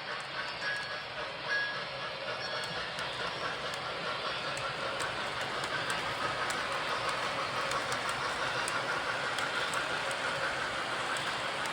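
Model train running along the layout's track: a steady rolling and motor noise with light, irregular clicking from the wheels over the rails.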